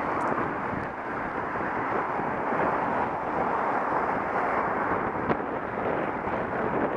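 Steady wind rushing over the microphone of an action camera carried on a moving bicycle.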